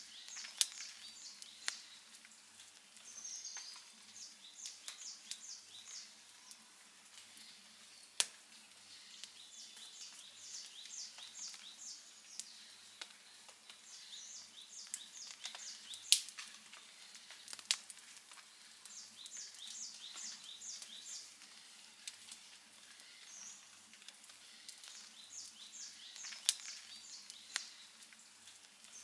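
Outdoor wood campfire crackling, with scattered sharp pops, the loudest about a third and just over half of the way through. Behind it, runs of six to eight short high chirps repeat every few seconds.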